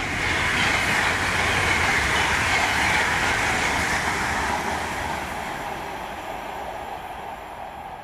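A train going by: a loud, steady rushing of wheels on the rails that is loudest in the first few seconds and slowly fades toward the end.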